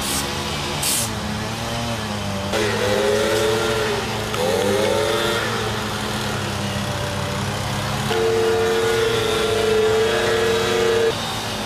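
An engine running steadily, revving up and back down twice, then holding a higher steady speed for a few seconds before dropping off suddenly near the end.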